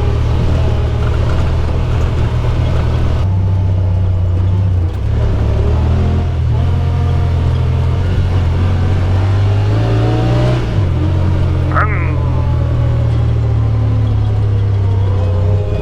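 Side-by-side UTV engine running under way, heard from on board, its low hum stepping and gliding in pitch as the throttle changes. A short rising chirp sounds about twelve seconds in.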